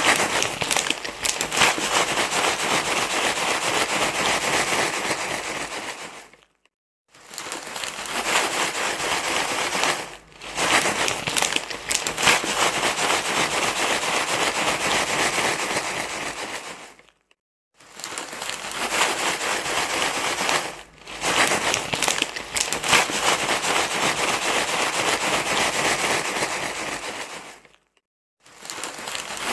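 Dense, continuous crinkly rustling, like material being crumpled and handled, used as a baby-soothing noise. It breaks off for a moment three times, about every ten seconds.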